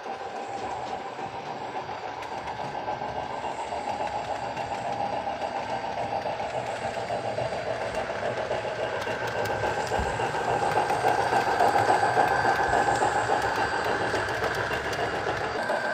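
Sound decoder in an HO scale brass Southern 4-6-2 Pacific model playing steam-locomotive exhaust chuffs through its small speaker: rapid, even chuffing of a running steam engine. It grows louder toward the last third, and a faint steady hiss-like tone joins partway through.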